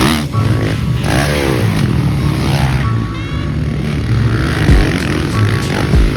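Motocross dirt bike engines revving, mixed with background music.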